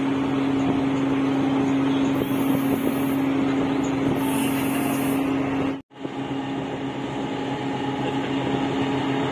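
River dredger's engine running at a steady drone with a constant low hum. The sound cuts out completely for an instant about two-thirds of the way through, then carries on unchanged.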